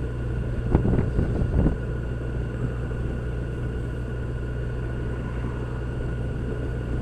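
Yamaha FJR1300's inline-four engine running steadily with a low rumble, with a brief disturbance of knocks about a second in.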